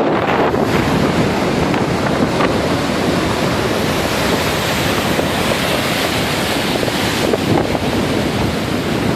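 Heavy storm surf breaking and rushing on the beach, a steady loud wash, with strong wind buffeting the microphone.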